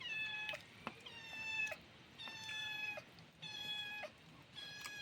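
A cat meowing over and over, about one meow a second. Each meow holds a steady pitch and dips at the end.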